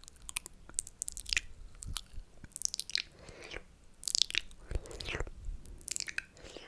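Close-miked wet mouth sounds: slurping and sucking with sharp lip and tongue clicks, in bursts about once a second.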